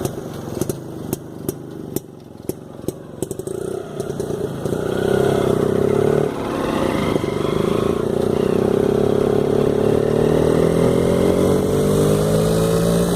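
Motorcycle engine running on rough ground, with a string of sharp knocks and rattles over the first few seconds. Then the engine pulls harder and its pitch climbs steadily, breaking once about six seconds in and rising again.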